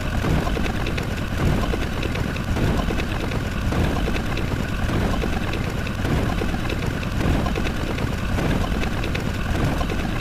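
A steady, dense rumble like an engine or aircraft sound effect.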